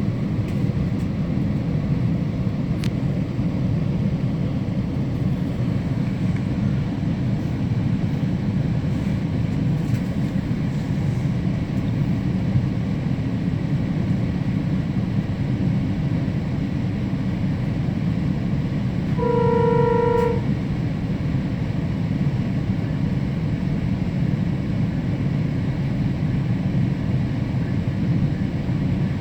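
Steady low rumble of a GO commuter train, heard from on board. About two-thirds of the way through, a single horn-like tone sounds for about a second.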